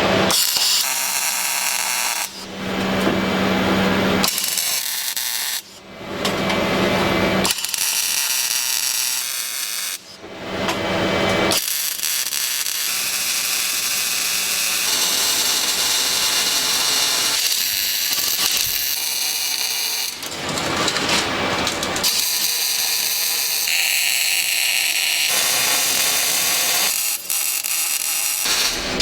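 Handheld power tool running with a high whirring hiss, cutting out and starting again several times.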